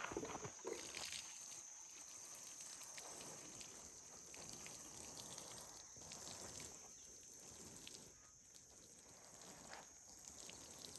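Faint outdoor ambience: a steady high-pitched insect drone, with scattered soft clicks and scuffs.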